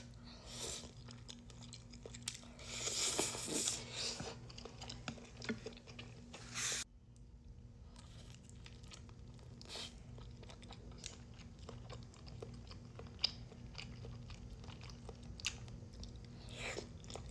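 Close-miked eating: chewing and crunching bites of food, loudest in the first seven seconds, then an abrupt drop to quieter chewing with scattered small clicks.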